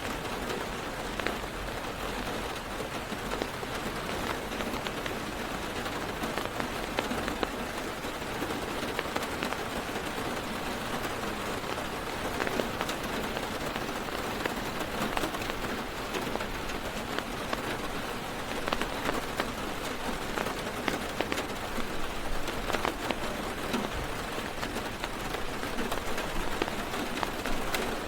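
Heavy rain drumming on a car's roof and windows, heard from inside the cabin: a steady hiss full of small ticks from single drops.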